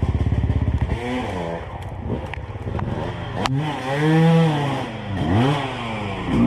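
Two-stroke enduro dirt bike engine, loud with fast low firing pulses for about the first second, then its note rising and falling in a series of revs. A sharp knock about three and a half seconds in.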